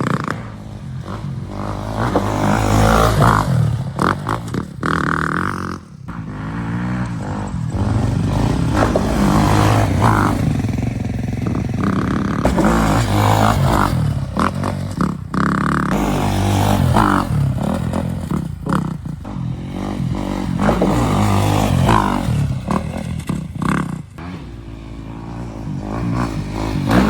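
ATV (four-wheeler) engine revving up and down repeatedly while being ridden, with clattering and a low rumble.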